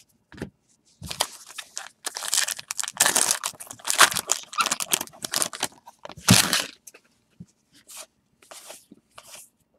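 Trading-card pack wrapper being torn open and crinkled: a run of rustling and ripping lasting about six seconds, with its loudest rip near the end, then a few faint rustles.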